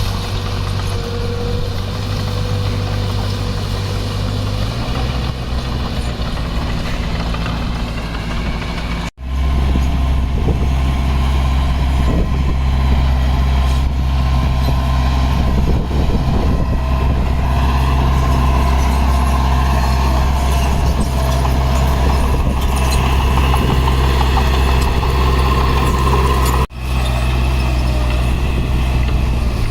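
Heavy diesel engine of earthmoving machinery running steadily at a low, even pitch. The sound breaks off for an instant about a third of the way in, comes back louder and deeper, and breaks again briefly near the end.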